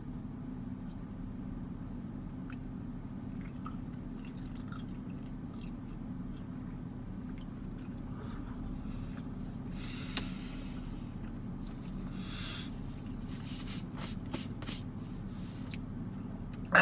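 A man chewing and swallowing a last mouthful of corn dog, with faint mouth clicks and a couple of soft breaths. A steady low hum runs underneath.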